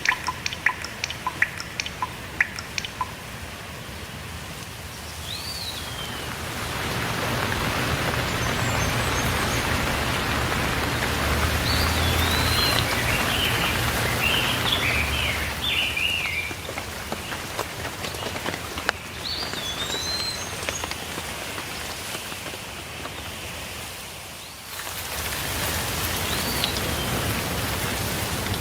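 Steady rainfall with birds calling over it. Single drops tick sharply for the first few seconds, then the rain thickens into an even hiss that briefly eases and returns a few seconds before the end. Over it a bird gives short rising-and-falling whistles now and then, with a burst of chirping about twelve seconds in.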